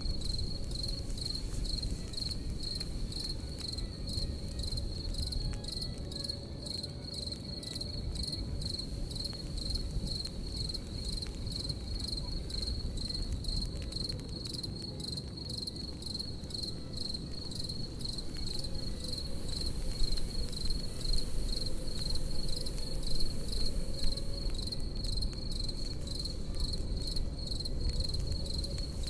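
Crickets chirping in a steady pulsing rhythm over the low rumble and scattered crackle of a campfire, the crackles louder for a few seconds past the middle.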